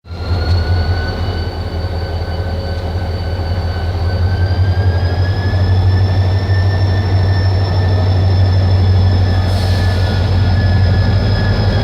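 Korail 7300-series diesel-electric locomotive pulling a passenger train away from a station: a loud low engine hum, with a steady high whine whose pitch rises slightly as the train gathers speed. A brief hiss comes near the end.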